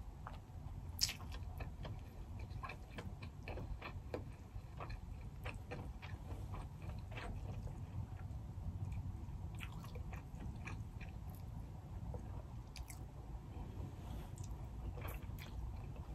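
Quiet close-miked chewing and biting of seafood, king crab and crawfish meat, with scattered small clicks and taps from handling the shells and one sharper click about a second in.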